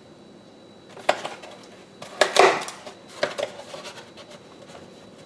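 Kitchen utensils clinking and knocking against a bowl and dishes in a few short bursts, loudest about two and a half seconds in.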